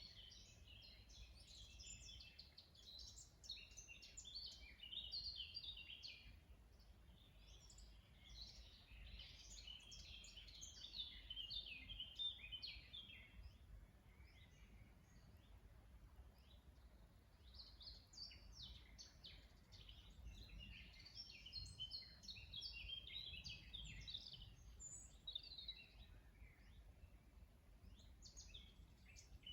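Several songbirds singing and chirping together, a dense chorus of quick high notes and trills that thins out in the middle and picks up again, over a faint low background rumble.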